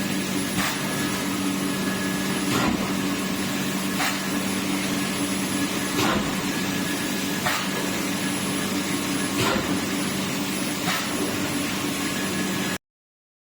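Egg tray production machinery running: a steady mechanical hum and hiss with a sharp knock about every one and a half to two seconds, cutting off suddenly near the end.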